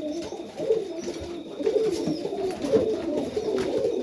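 Domestic pigeons cooing continuously in a loft, several birds overlapping in a low, wavering coo.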